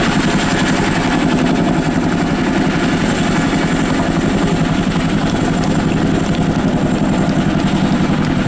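Boeing Chinook HC6 tandem-rotor helicopter running close by, its rotor blades beating in a rapid, steady chop over a thin, steady high whine.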